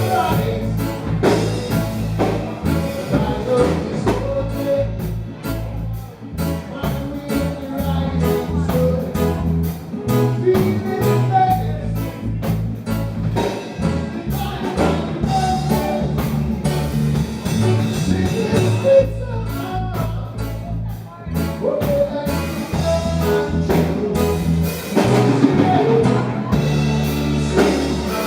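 Live reggae band playing: bass, drums, guitar and keys with sung vocals.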